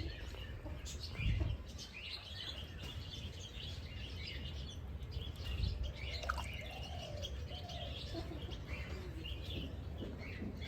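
Several wild birds chirping, many short high calls overlapping throughout, over a steady low outdoor rumble with a brief low surge about a second in.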